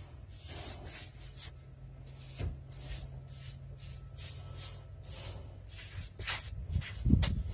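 Paintbrush strokes on a wooden window frame: short swishing rubs, about two a second, with a louder low knock near the end.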